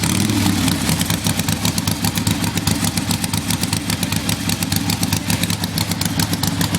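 1975 Harley-Davidson Ironhead Sportster's air-cooled V-twin engine idling, with an even pulsing beat from its firing strokes.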